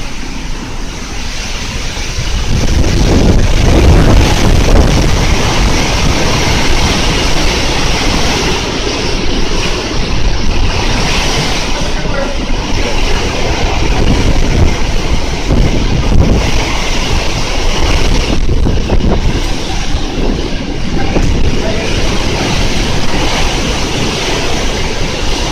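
Typhoon-force wind buffeting the microphone: a loud, low, rumbling rush of wind that swells about two seconds in and then stays strong, rising and falling with the gusts.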